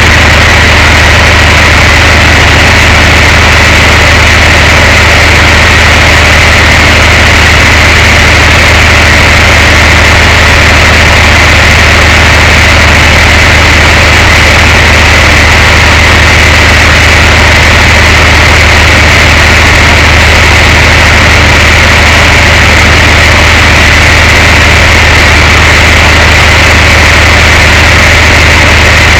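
Tow truck engine idling: a loud, unchanging drone with a strong low hum.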